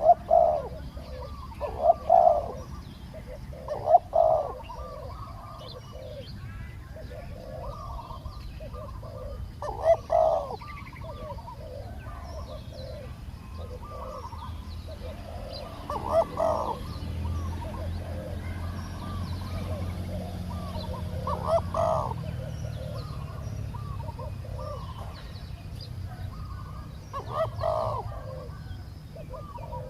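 Spotted doves cooing, short phrases repeated every few seconds: the calling of a decoy dove and a wild dove answering it. Small birds chirp faintly behind, and a low rumble rises briefly in the middle.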